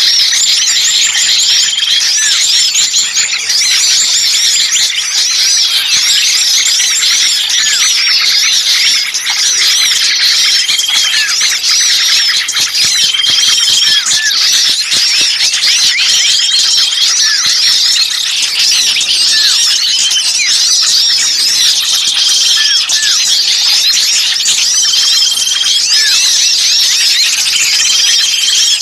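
Bird-lure recording of a dense, noisy chorus of many small birds chirping and calling at once, meant to sound like agitated birds with one caught. A short steady whistled note recurs every few seconds above the continuous twittering.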